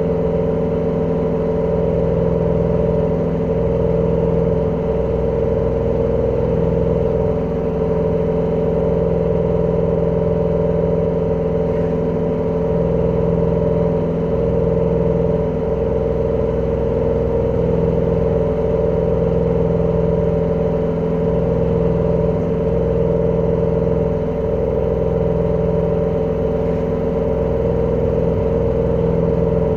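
LG direct-drive washing machine in its spin cycle, running with a loud, steady hum and drone. This is the extreme spin noise of a faulty machine.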